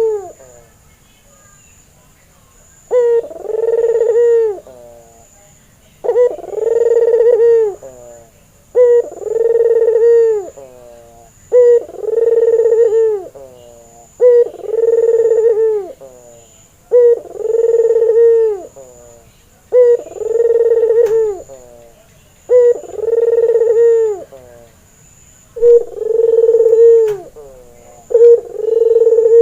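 Ringneck dove (white 'puter' dove) cooing over and over: each call is a short note run into a longer rolling coo, repeated about every two and a half seconds.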